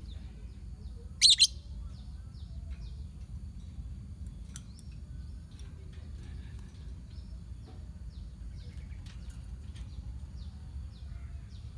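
A colony of lovebirds chattering in many short, falling chirps, with one loud double shriek about a second in, over a steady low rumble.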